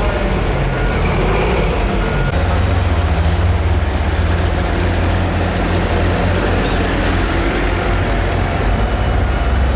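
Pro Stock pulling tractor's turbocharged diesel engine running loud and steady under load, with a deep low rumble that gets heavier about two seconds in and then holds.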